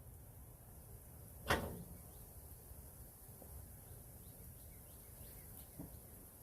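A single sharp knock with a short ring about a second and a half in, over faint background noise.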